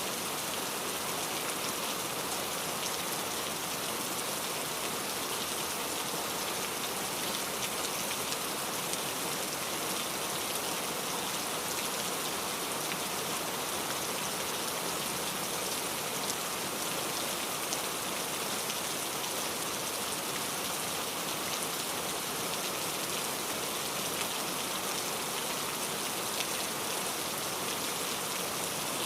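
Steady rain falling, a dense even patter of many drops hitting a surface, without pauses or changes.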